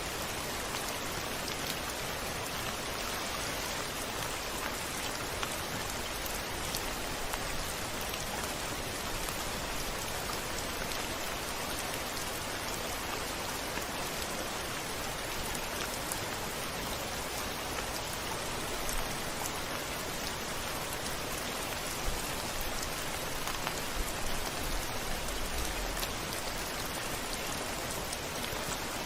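Steady rain falling: a dense, even hiss of drops, with a few louder drop hits in the last third.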